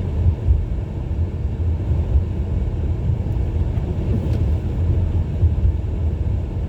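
Steady low rumble of a 2017 Ford Edge SUV's engine and tyres heard from inside the cabin while driving.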